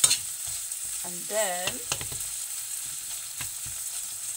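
Sardines and chopped red onion sizzling in oil in a frying pan, with a slotted spatula stirring and breaking them up, giving scattered scrapes and taps against the pan over a steady sizzle.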